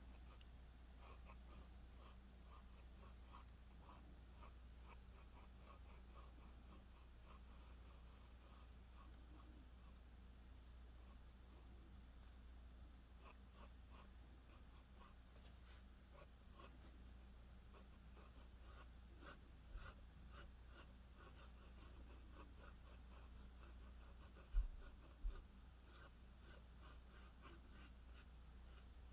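Pencil shading hair on paper: many quick, light strokes, faint, with two short low thumps near the end.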